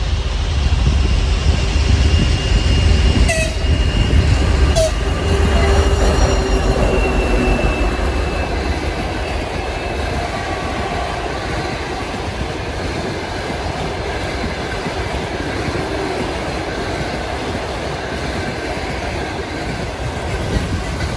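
Diesel-hauled trains passing each other with a deep engine rumble. A locomotive horn sounds for several seconds in the first third, with two sharp clicks partway through. After that comes a steady clatter of wagon wheels over the rail joints.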